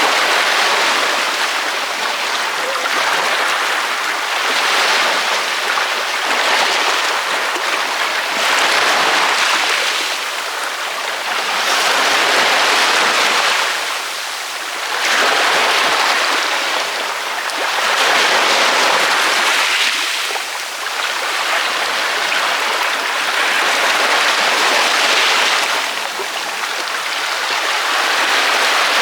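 Ocean waves breaking on a beach: a continuous hiss of surf that swells and eases again every few seconds.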